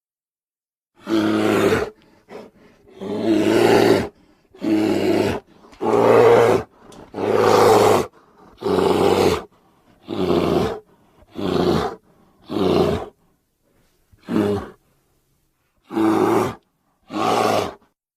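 Custom monster sound effects for a gorilla-giraffe hybrid creature: a series of about a dozen short, loud roars and grunts with brief pauses between them, the longer ones around the middle.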